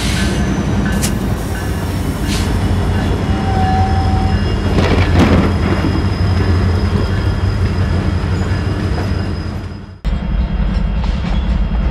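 Diesel-hauled freight train passing: a steady low rumble of locomotive engines and wheels, with a thin high wheel squeal over it. About ten seconds in the sound cuts abruptly to another diesel locomotive running.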